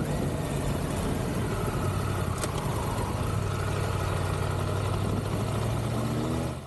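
Triumph Tiger 1200 motorcycle's three-cylinder engine running steadily under way, with wind and road noise. The engine note rises a little near the end.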